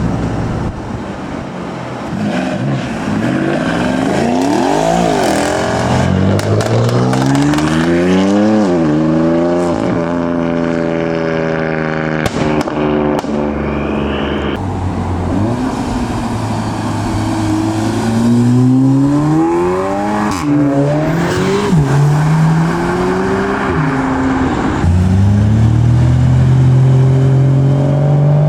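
Modified tuner cars' engines accelerating hard away, one after another: the engine note climbs and drops again and again as they rev and shift gear, with a few sharp cracks in between.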